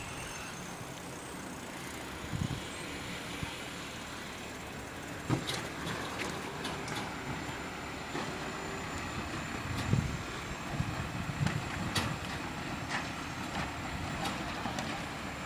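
Garbage truck running steadily, with scattered short knocks and clanks, the loudest about ten seconds in.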